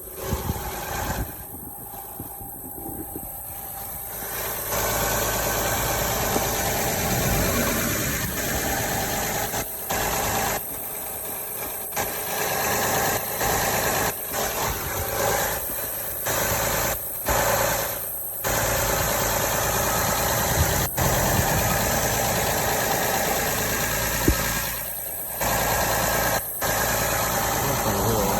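Honda Odyssey minivan engine running steadily, with a noise the owner suspects comes from an exhaust or vacuum leak. It becomes louder about five seconds in.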